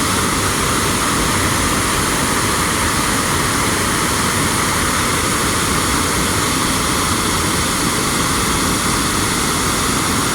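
River water pouring over a dam and its spillway: a loud, steady rushing noise that does not let up.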